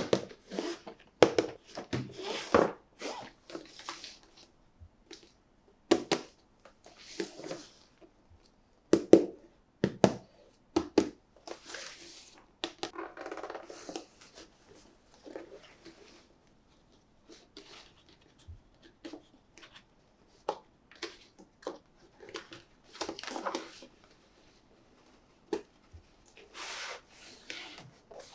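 Hands unboxing a toy monster truck: irregular sharp clicks and taps mixed with short rustles and crinkles of packaging, with a longer rustle around the middle and again near the end.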